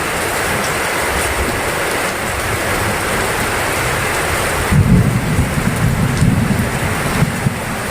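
Heavy rain pouring steadily, with a low rumble of thunder rolling in about two-thirds of the way through.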